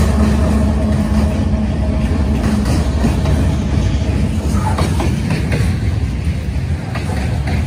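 CSX freight train passing close by. A diesel locomotive's steady engine hum fades out over the first few seconds, leaving the heavy rumble of covered hopper cars rolling past, with a few sharp wheel clicks later on.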